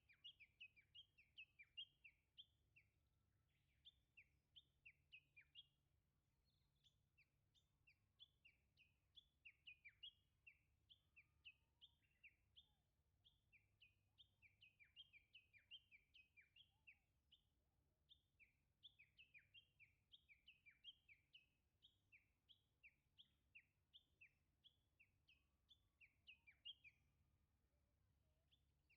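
A songbird singing long runs of short, quick notes, each sliding down in pitch, several a second, in phrases a few seconds long with brief pauses between.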